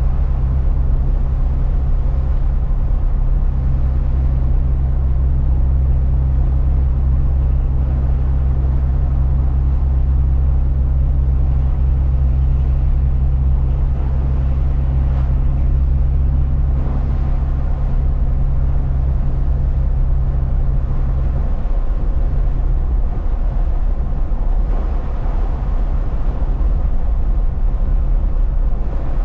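A truck driving, its engine holding a steady low drone over road noise. The drone changes about two-thirds of the way through, as with a gear or speed change.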